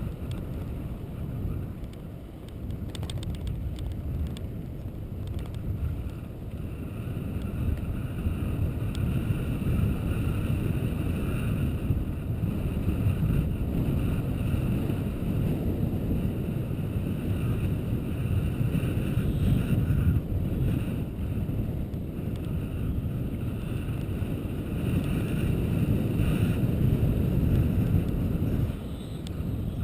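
Wind buffeting the microphone: a low rumbling noise that swells and eases, dropping briefly near the end.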